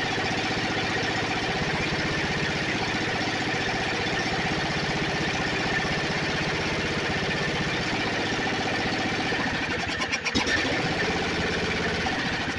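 A 12.5-horsepower Briggs & Stratton engine on a Snapper riding mower running steadily, its hard-starting problem overcome. About ten seconds in it turns rough and uneven, in separate pulses.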